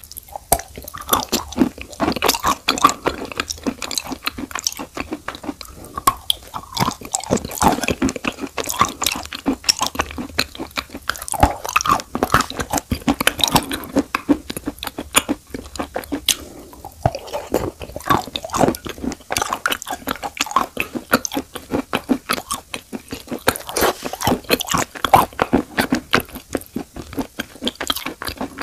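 Close-miked chewing of edible chalk and Uzbek blue clay: a continuous run of quick, crisp crunches and bites.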